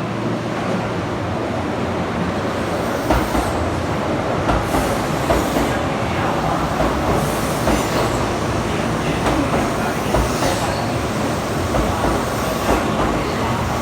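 Subway train running on the rails: a steady rumble with brief louder jolts and clacks every couple of seconds, and short high hissing or squealing patches from the wheels.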